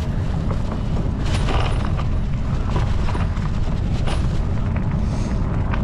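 Wind buffeting the microphone: a steady low rumble, with scattered short clicks and rattles over it.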